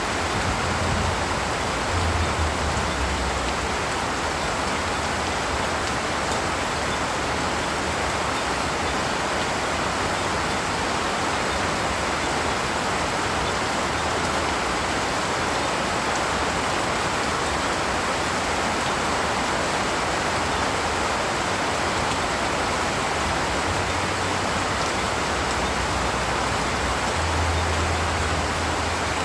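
Steady rain falling in a forest, an even hiss of drops with low rumbling now and then near the start and end.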